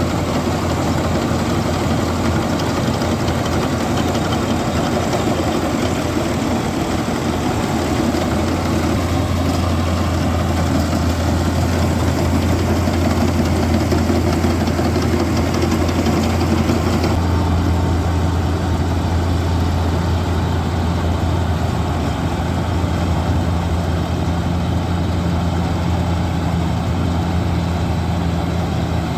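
John Deere 4WD tractor's diesel engine running steadily while driving a tractor-mounted paddy harvester, with a constant low drone. Just past halfway the sound changes, turning duller as a second steady hum comes in.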